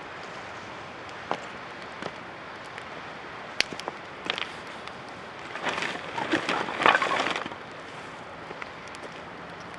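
Wood campfire crackling: a steady hiss with scattered sharp pops, and a burst of dense crackling and snapping about six to seven seconds in.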